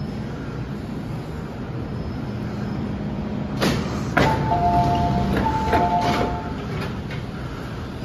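MTR M-train sliding passenger doors with their electronic two-note door chime sounding twice, amid clunks from the door mechanism, over the train's steady hum.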